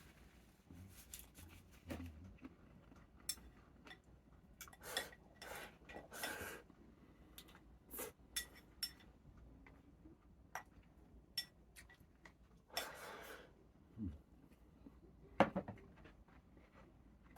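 Eating utensils clicking and scraping against bowls and dishes at a meal: scattered light knocks, with a few short scrapes.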